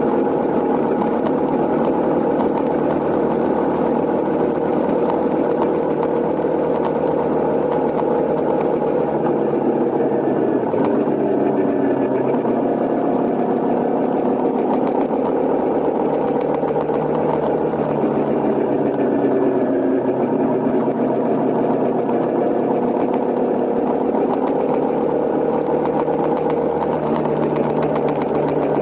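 Honda CRF250L motorcycle's single-cylinder four-stroke engine running steadily, its pitch dipping and rising a couple of times.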